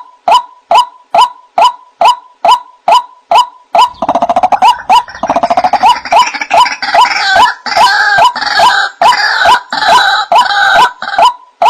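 White-breasted waterhen calling, a loud 'kruak' repeated about three times a second. From about four seconds in until near the end the calls turn denser and harsher, with several voices overlapping.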